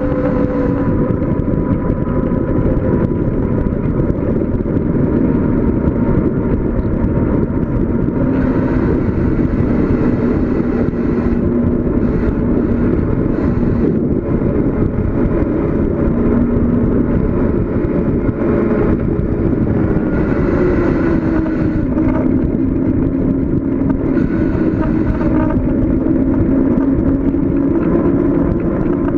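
Loud, steady wind rush on the microphone of a bicycle coasting downhill. Under it is a faint hum whose pitch drifts slowly up and down.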